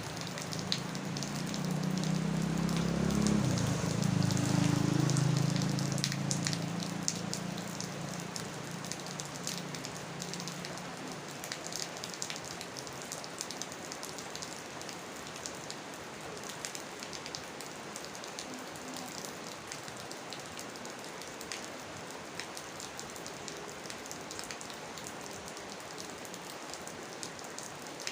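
Steady rain falling, with many fine drop ticks throughout. A low rumble swells over the first few seconds and fades out by about ten seconds in.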